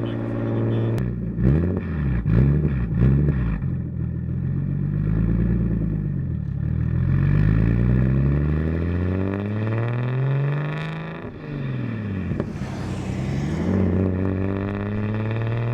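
Single-turbo BMW 335i's turbocharged straight-six under way. It is blipped up and down a few times, then pulls through a long climb in revs, drops back, and climbs again near the end, with a short hiss during that last climb.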